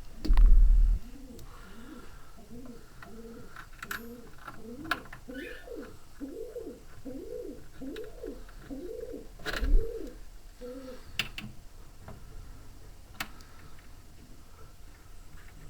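A pigeon cooing over and over, about a dozen evenly spaced rising-and-falling coos for roughly nine seconds. A short loud low hum or thump comes right at the start, and a smaller one about ten seconds in.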